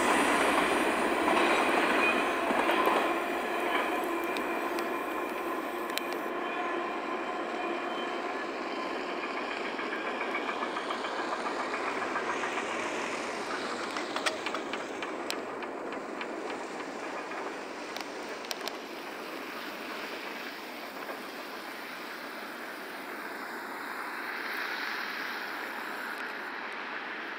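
Tail end of a double-stack intermodal freight train rolling away on steel rails. Steady wheel squeal is heard in the first few seconds, then the rumble of the wheels fades slowly as the last well car recedes.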